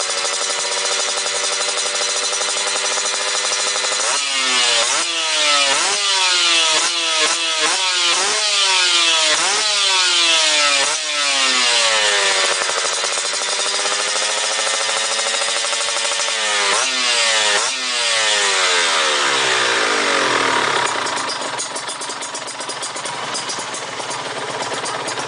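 Kawasaki Ninja 150's single-cylinder two-stroke engine running through an aftermarket Peak 'Scorpion' exhaust, being blipped. It holds a steady rev for a few seconds, then is revved up and dropped back over and over in quick blips, with one slower rise and fall in the middle. It then drops back to a lower, rougher idle near the end.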